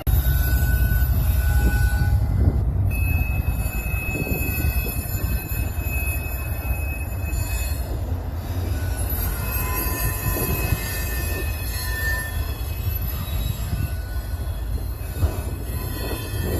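CSX freight train rolling slowly, its wheels squealing in thin, steady high-pitched tones that come and go, the longest lasting several seconds. Under the squeal runs a heavy low rumble, strongest in the first few seconds.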